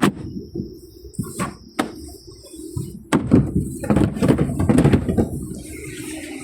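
A series of knocks and clicks, like a car's doors and fittings being handled and shut, then a steady running hum from about six seconds in.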